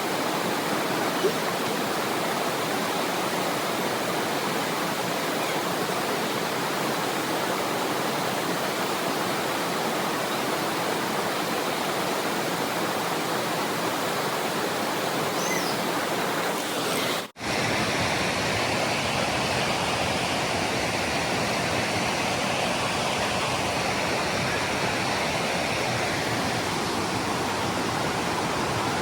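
Waterfall and stream water rushing steadily. It cuts out for an instant about two-thirds of the way through, then comes back fuller and lower.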